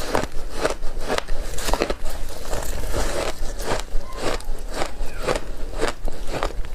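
Ice coated in matcha powder being chewed, crunching and cracking between the teeth at about two crunches a second.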